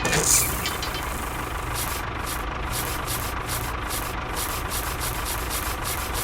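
Mini tractor's small engine running steadily with a regular ticking, about three to four ticks a second, over a low rumble. A brief hiss comes just at the start.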